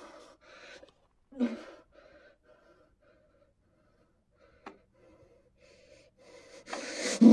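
A man gagged with duct tape sobbing through the gag: muffled whimpers and breathy gasps through the nose, with a sharp gasp about a second and a half in. There is a single short click near the middle, and the muffled crying grows louder near the end.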